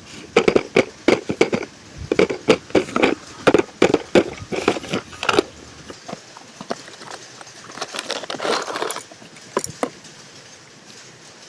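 Toy packaging being handled and opened: a quick run of clicks, knocks and crackling of plastic and cardboard for the first five seconds or so, then sparser clicks and a short rustle about eight seconds in.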